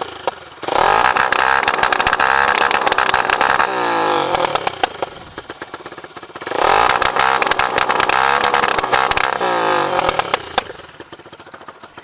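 Motorcycle with a JR Racing aftermarket exhaust revved hard twice while standing, each rev held high and then dropping away, with sharp crackling pops from the exhaust.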